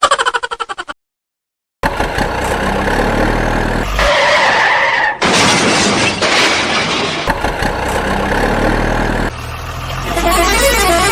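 Rapid clicking for about a second, a short gap, then engine-like vehicle sounds in several segments that change abruptly every one to two seconds.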